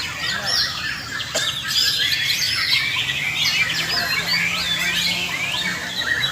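Many white-rumped shamas (murai batu) singing at once, as on a contest hanging line, a dense overlapping chorus of whistles and trills.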